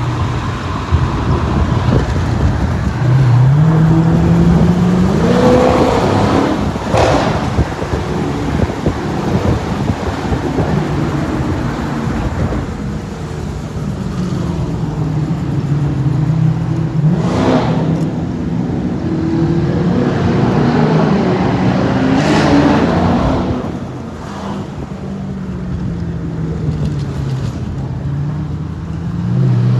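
Car engine pulling hard as the car accelerates, its pitch climbing several times and dropping back between pulls, with a few brief sharp bursts.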